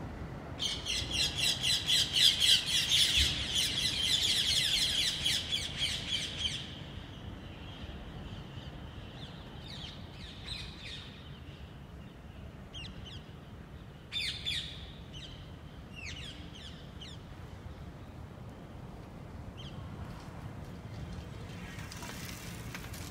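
Birds chirping: a dense, loud run of rapid chirps for the first six seconds or so, then scattered short calls.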